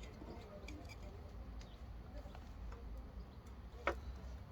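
Light clicks and taps of small engine parts being handled, with one sharper click near the end, over a low steady hum.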